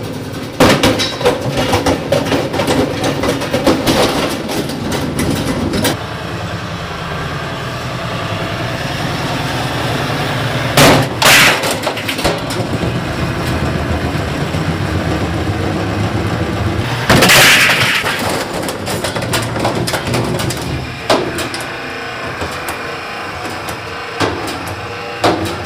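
Top-loading Maytag washing machine running with bricks or rocks loaded in the drum, banging and cracking steadily as the unbalanced load shakes it apart. There are loud crashing impacts about 11 and 17 seconds in.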